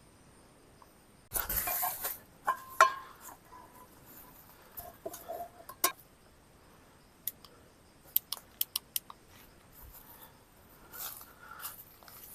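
Scattered clinks, knocks and rustles of camp cookware and utensils being handled. There is a rustle about a second in, a sharp knock near three seconds, and a quick run of five small clicks around eight seconds.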